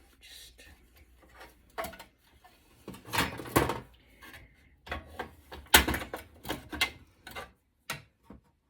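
Irregular knocks, clicks and rattles of metal parts and circuit boards being handled and pried apart while an electronics chassis is dismantled, with a loud cluster of clatter about three seconds in and another sharp knock near six seconds.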